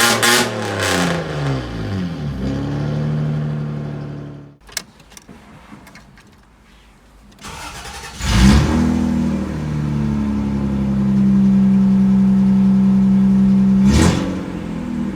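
Toyota 1G-EU 2.0-litre inline-six coming down from a rev to idle, then cutting out suddenly about four and a half seconds in. Around eight seconds in it is started again, settles to a steady idle, and is blipped briefly near the end; the seller calls it a healthy engine that revs cleanly.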